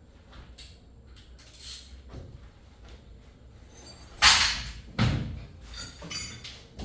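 Engine parts and tools being handled on a workbench: faint scattered rustling and small knocks, then two loud clunks about four and five seconds in, followed by a few lighter knocks.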